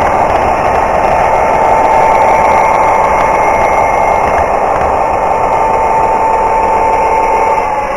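O scale model GP9 diesel locomotive running, heard from on board: steady engine sound and rumble with a constant high whine, the whine easing off and dropping slightly near the end.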